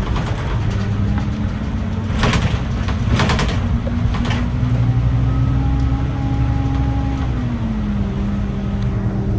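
Scania city bus diesel engine running, its pitch rising about two and a half seconds in, holding, then dropping back near the end as the revs fall. Three short hisses about a second apart sound over it early on the rise.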